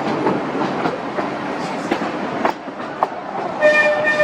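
Vintage amusement-park miniature train running along its track, wheels clicking over rail joints. About three and a half seconds in, the train's whistle sounds one steady note, held past the end.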